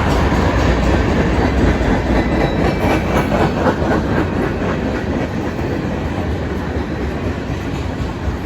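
Norfolk Southern freight train rolling past, the steel wheels of its cars running over the rails with a cluster of clicks a few seconds in. The sound eases slightly toward the end.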